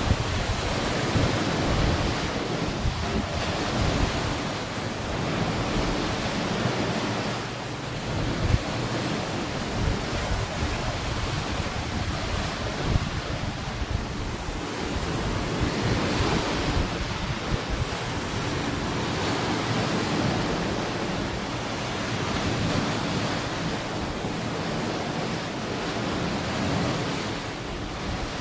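Ocean waves breaking and washing onto a beach, a steady rush of surf that swells and eases every few seconds, with wind buffeting the microphone.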